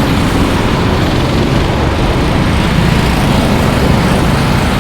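Racing engines running steadily under a heavy, even rush of noise from cars lapping a wet track.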